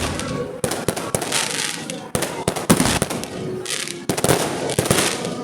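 Fireworks display going off: a dense, continuous run of bangs and crackles, with fresh loud volleys about half a second, two seconds and four seconds in.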